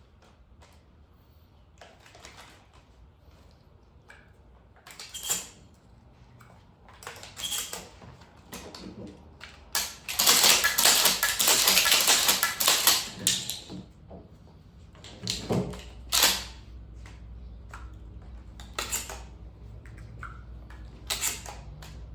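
Shotgun being handled and loaded: scattered sharp clicks and clacks of shells and the action, with a dense run of rapid clattering for about three seconds near the middle.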